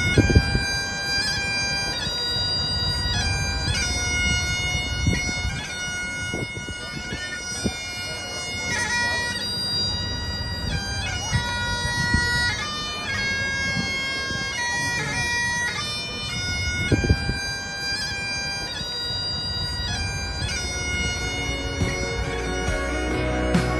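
Bagpipes playing a tune over their steady drones, with a low rumble and a couple of knocks underneath.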